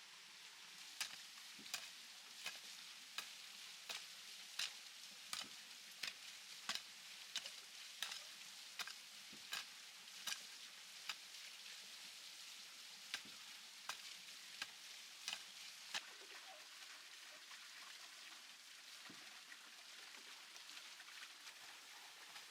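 Faint sharp taps, evenly spaced at about one every 0.7 seconds, over a steady hiss; the taps stop about 16 seconds in, leaving only the hiss.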